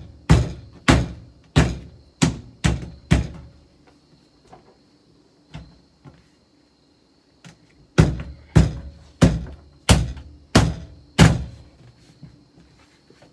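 Repeated heavy thumps on the door of a 1968 Saab 95, each with a short low ring, about two every second or so. There are seven in the first few seconds, a couple of faint knocks, then six more from about eight seconds in, as a part is knocked into place in the door.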